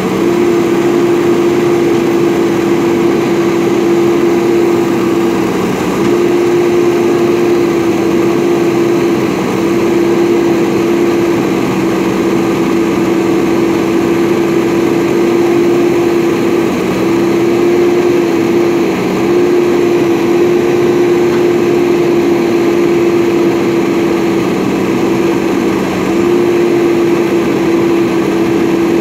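JCB backhoe loader's diesel engine running steadily under working revs, with a steady whine that dips briefly about five times.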